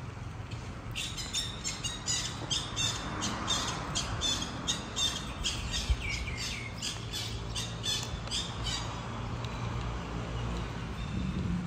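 A bird calling in a fast run of short, high chirps, about three a second, stopping about nine seconds in, over a steady low rumble of outdoor background noise.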